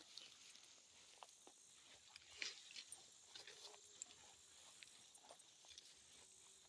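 Faint scattered crackles, typical of footsteps through dry leaves and brush, the loudest about two and a half seconds in, over a steady high insect drone.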